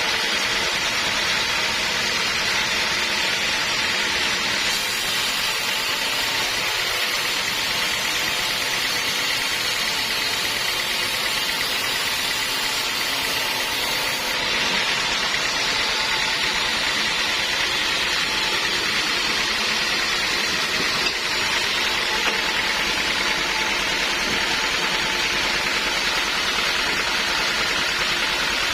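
Sawmill machinery running steadily, a continuous mechanical noise with a faint steady hum and no pauses.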